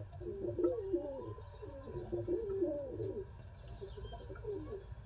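Domestic pigeons cooing: a run of wavering, low coos, densest in the first three seconds and quieter after, over a steady low rumble.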